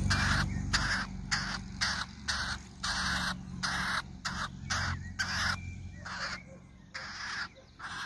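Harsh, raspy bird calls in a quick series, about two a second, like mocking laughter, growing fainter near the end.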